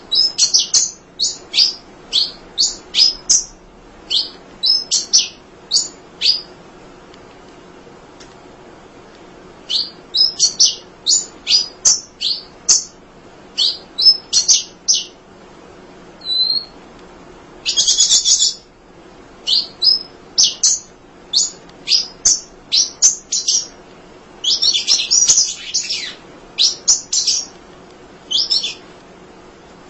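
Emprit (munia) chirping: quick runs of short, sharp, high chirps, with a pause of about three seconds about a quarter of the way through and a few denser flurries later on.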